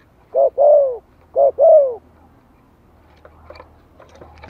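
Spotted dove cooing in the decoy-calling style: two phrases about a second apart, each a short note followed by a longer note that bends up slightly and falls away. Fainter, scattered chirps and clicks follow in the second half.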